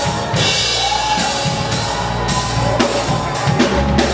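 Live gospel band playing with a full drum kit: steady kick and snare hits under sustained keyboard chords.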